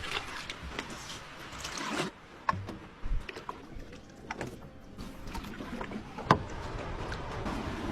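Canoe on the water: a steady watery swish with several sharp, irregular knocks against the hull, the loudest a little after six seconds in.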